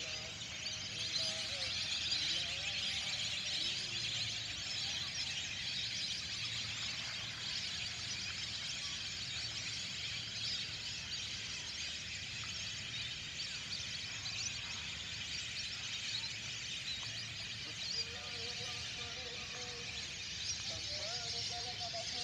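A dense, steady chorus of many birds calling at once: a continuous high chatter of whistles and chirps, with fainter, lower wavering calls coming in near the end.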